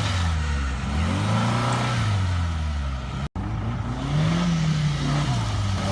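A 4x4's engine revving up and down several times, its pitch rising and falling, with a sudden brief dropout a little past halfway.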